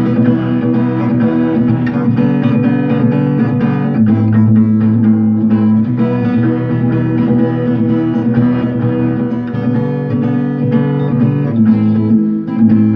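Guitar played continuously: plucked notes ringing, with many short, sharp attacks.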